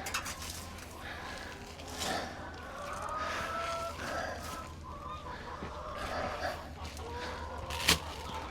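Chickens calling and clucking in short, scattered calls, with a sharp knock near the end.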